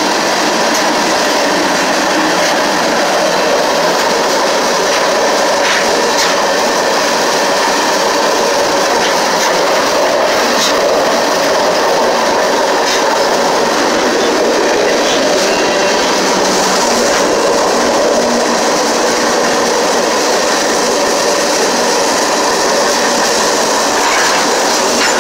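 Freight train rolling along at speed, heard from the open end platform of one of its cars: a loud, steady rumble and rattle of wheels on rail and the car's body, with a few sharp clanks here and there.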